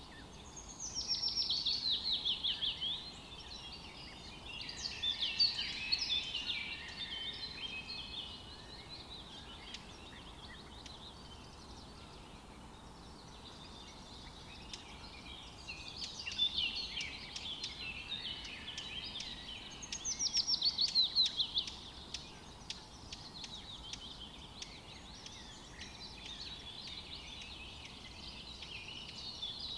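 Songbirds singing in a forest over a faint steady hiss. Two loud phrases of rapid notes fall in pitch, one about a second in and one about two-thirds of the way through. Quieter chirping and warbling fills the gaps.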